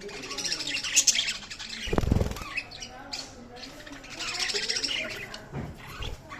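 Budgerigars chattering with rapid chirps and warbles. A low thump comes about two seconds in, and a softer one near the end.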